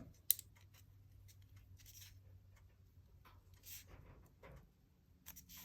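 Faint rustling and creasing of a sheet of scrap paper being folded in half by hand, with a sharp tap about a third of a second in.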